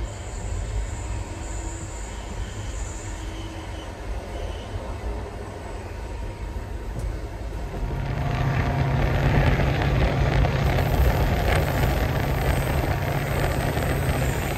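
Passenger train running: a steady low rumble that grows louder and fuller a little past halfway, with a rushing hiss joining it.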